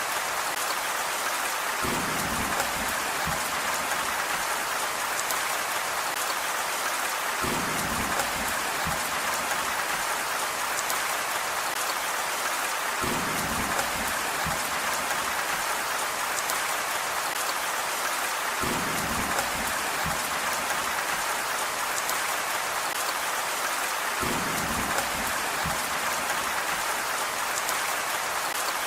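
Steady heavy rain hiss, with a short low rumble that recurs about every five and a half seconds, evenly spaced like a repeating loop.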